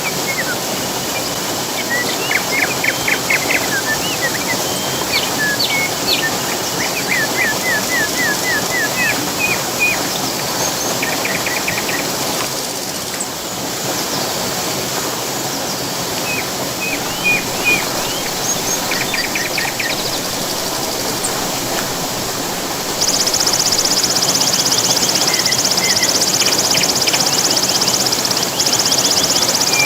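Steady rush of falling water with songbirds calling over it in short chirps and quick trilled series. About three-quarters of the way in, a loud, high, steady buzz joins in.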